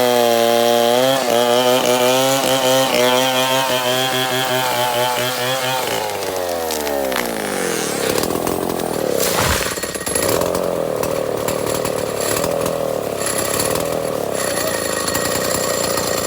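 Two-stroke chainsaw running at high revs, then its engine note falls away over a few seconds as the throttle is released. A single sharp knock follows, and the saw runs on at a lower, rougher speed.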